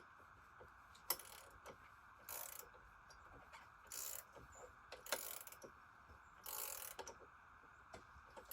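Faint sound of a wrench tightening the bolts of an Alaskan chainsaw mill's bar clamps: several short rattling strokes and a few sharp clicks.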